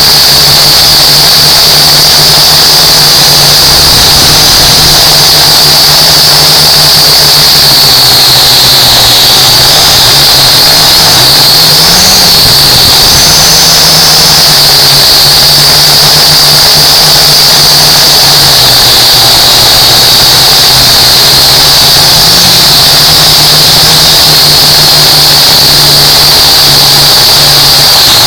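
Quadcopter drone's motors and propellers whining loudly and steadily, with a brief rise and fall in pitch about twelve seconds in.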